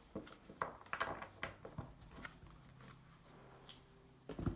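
Tarot cards being handled and laid out on a table: a quick run of soft card slaps and rustles over the first two seconds, then a low thump just before the end.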